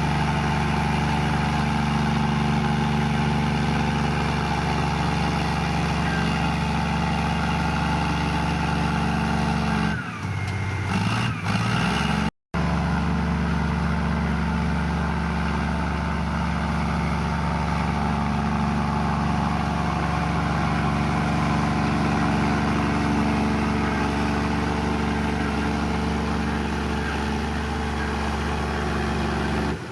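Komatsu bulldozer's diesel engine running steadily. Its note wavers and shifts briefly about ten seconds in, and the sound drops out for a moment about twelve seconds in.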